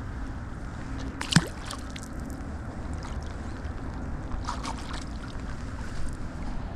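Wind buffeting the microphone in a steady low rumble, broken about a second in by one sharp, loud knock or clatter, with a few fainter scrapes later.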